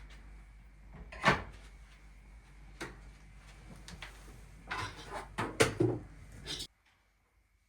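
A few knocks and clatter of objects being handled. There is a sharp knock about a second in and a cluster of clattering knocks near the end, then the sound cuts off abruptly.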